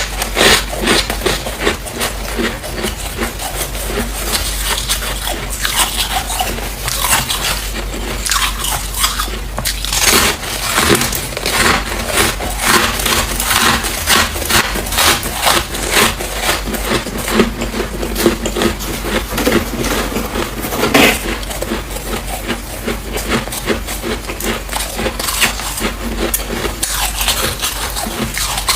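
Freezer frost being bitten and chewed close to the microphone: a dense, continuous run of crisp icy crunches, with one louder crunch about three quarters of the way through.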